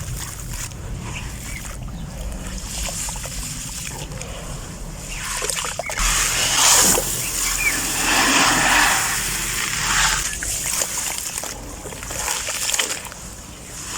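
White sand-cement shapes crusted with small crunchy grains crumbling into water, with splashing and sloshing that comes in louder surges from about halfway through.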